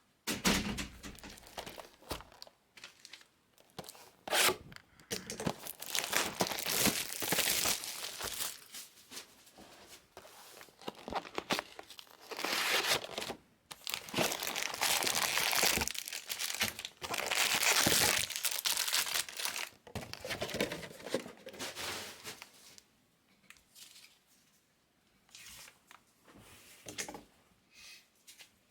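Foil baseball card pack wrappers being torn open and crinkled by hand, in a long run of rustling tears, then only a few quieter crackles near the end.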